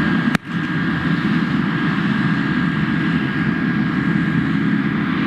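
Jet aircraft engine noise: a steady rumble and hiss with a thin steady whine, broken by a short click and dip about half a second in.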